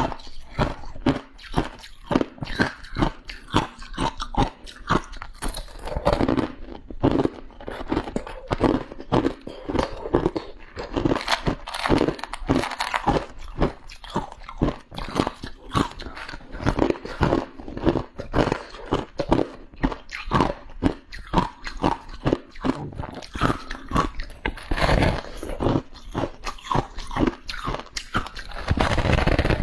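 Freezer frost being bitten and chewed close to the microphone: a dense run of crisp crunches, several a second.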